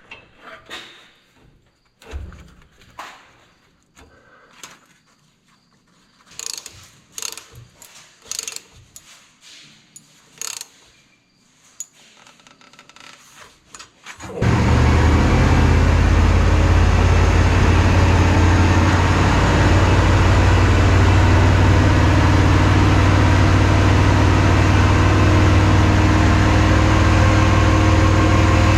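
Scattered clanks and knocks of hand work on metal parts, then about halfway in the Tucker Sno-Cat's engine is suddenly heard running steadily at idle.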